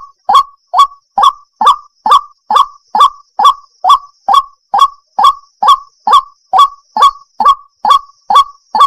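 White-breasted waterhen (ruak-ruak) lure call: a recording of the bird's call played on a loop, short harsh notes repeated evenly at a bit over two a second.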